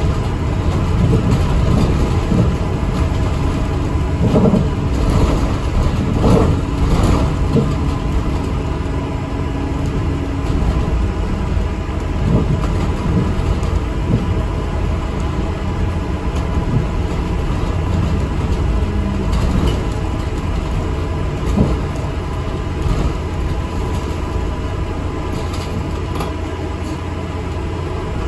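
Steady rumble of an ADL Enviro 400 MMC double-decker bus on the move, heard from inside the cabin: engine and road noise, with a few brief knocks and rattles.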